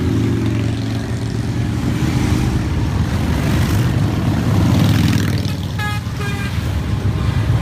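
A steady stream of motorcycles riding past, their engines running loudly and continuously, with a short double horn toot about six seconds in.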